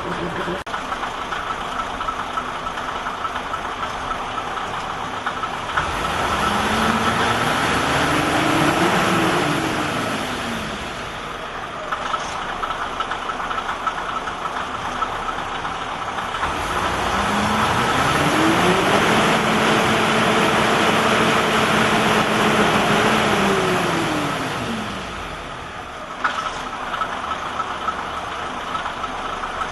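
KiHa 52 series diesel railcar engine idling, then revved up twice: a short rise and fall about six seconds in, and a longer rev held for several seconds in the second half before it drops back to idle.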